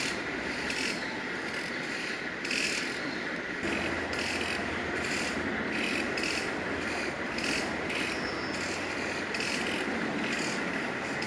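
Forest insects calling: a rhythmic rasping pulse about twice a second over a steady high whine.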